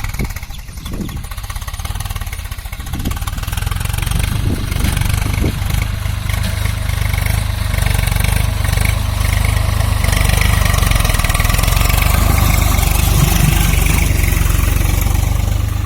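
Swaraj 744 tractor's diesel engine running, getting louder over the first several seconds and then holding steady.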